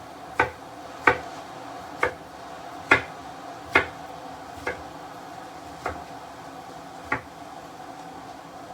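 Kitchen knife chopping fresh pineapple into small chunks on a chopping board: eight sharp strokes about a second apart, spacing out and getting softer toward the end.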